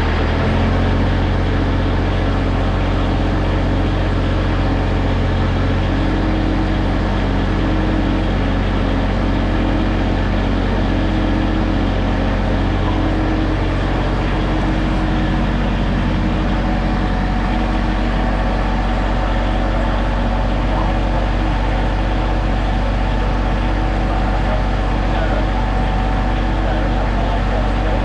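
Tractor engine running steadily with a loud, even hum, its low note shifting slightly a few times, as it drives the snowblower.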